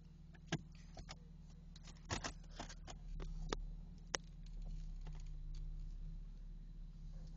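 Toyota 1JZ-GTE turbocharged inline-six idling steadily with a low hum, under a series of short sharp clicks and knocks from handling around the car.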